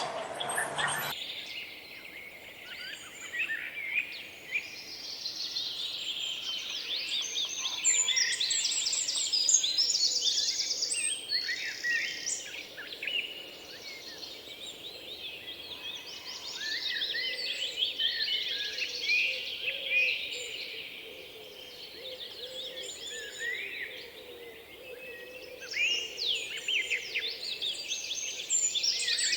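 Many small birds chirping and chattering at once: a dense, overlapping chorus of quick high calls and trills that swells and eases in waves.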